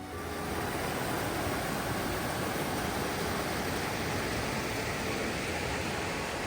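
Steady rushing noise with no distinct events, starting abruptly at a cut and holding an even level throughout.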